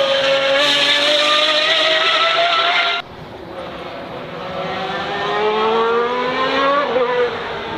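Racing car engine at high revs. It cuts off abruptly about three seconds in, then a car accelerates hard with the engine note climbing steadily until an upshift near the end.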